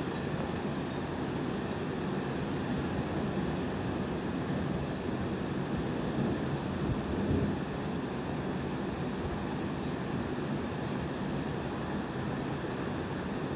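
Steady low hiss and rumble of outdoor night background, with a cricket chirping high and thin in an even, unbroken pulse.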